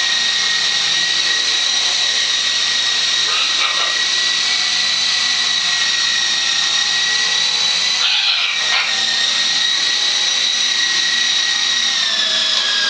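Radio-controlled model helicopter's motor and rotor whining at a steady high pitch in hover, the pitch dropping near the end as it slows.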